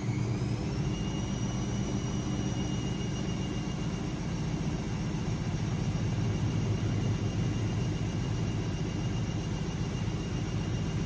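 AEG Lavamat 6610 washing machine spinning its drum: the motor's whine rises and settles at a steady spin speed about a second in, over a constant rumble.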